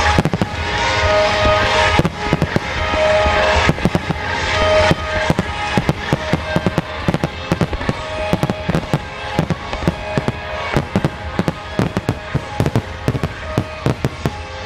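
Fireworks display: aerial shells bursting one after another, the bangs coming thicker and faster about halfway through, over music played on loudspeakers.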